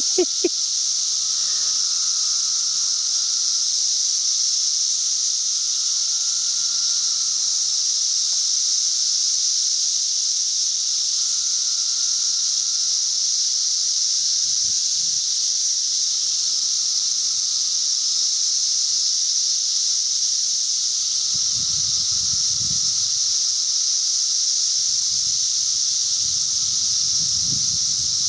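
A dense chorus of periodical cicadas: a steady, loud, high-pitched hiss from the mass of males singing together, with a lower droning call swelling and fading every few seconds over it. Some low rumbling comes in near the end.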